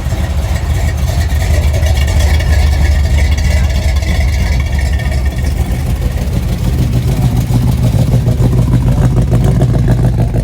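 A loud car engine rumbling steadily, its deep note rising somewhat in pitch over the last couple of seconds.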